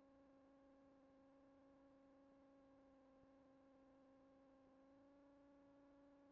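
Faint, steady electrical whine in the aircraft's headset intercom audio, with even overtones, rising slightly in pitch about five seconds in.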